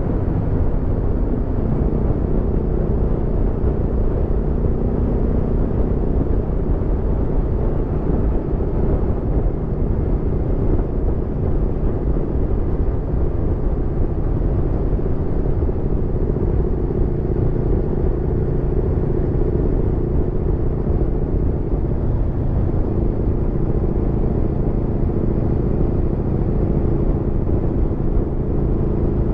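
Aprilia Tuono V4's V4 engine running at a steady cruise under way, its pitch holding nearly level with only slight shifts.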